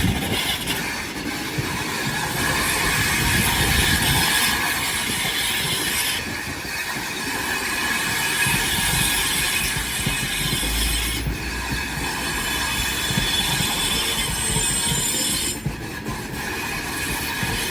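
Train rolling along the rails with a steady running noise and, at times, high-pitched wheel squeal.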